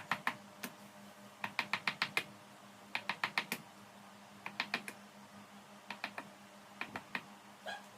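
Light, sharp taps of a small hammer on metal, coming in quick bursts of four to six strokes with short pauses between the bursts.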